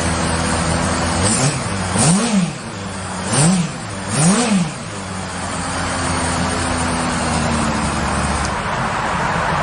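Honda CB400 Super Four VTEC's inline-four through a Yoshimura aftermarket muffler, idling steadily and then blipped four times in quick succession, each rev rising and dropping straight back to idle.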